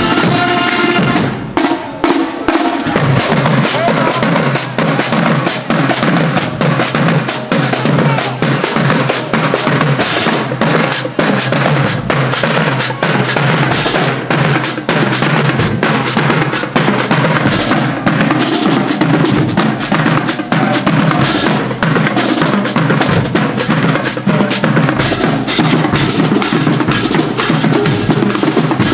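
Marching band drumline playing a fast cadence, with snare and bass drums striking in a dense steady rhythm.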